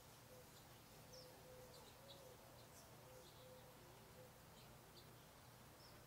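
Faint, scattered high chirps of small birds, with a lower call repeated in short notes in the background, over a soft low hum.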